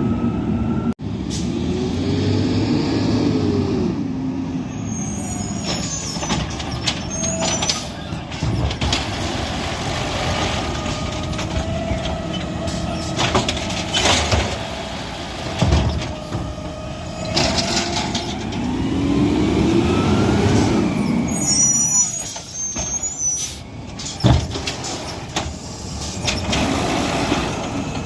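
Garbage truck working: its engine revs up and falls back twice, about two seconds in and again near twenty seconds, over a steady whine, with several sharp bangs and clanks.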